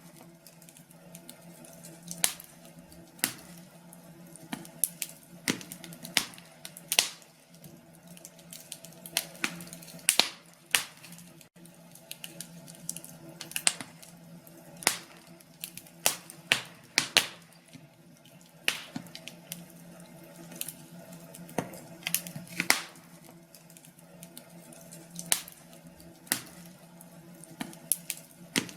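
Wood fire crackling in a fireplace: irregular sharp pops and snaps, one to three a second, over a faint steady hum.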